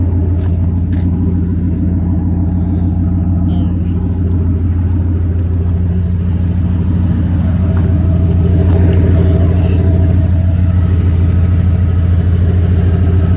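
Ford 460 big-block V8 in a 1997 F350 dump truck idling steadily, a little louder about eight seconds in.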